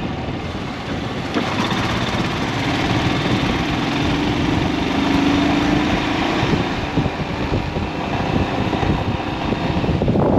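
Motorcycle engine running steadily while riding, mixed with road and wind noise; an engine tone stands out a little more clearly in the middle.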